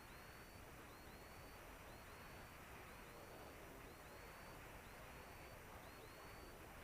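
Near silence: faint steady hiss, with faint short high chirps repeating about once a second.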